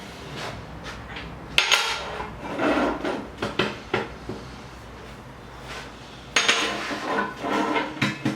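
Metal parts and tools clanking against each other: a few separate knocks, then a longer rattling clatter with some metallic ringing near the end.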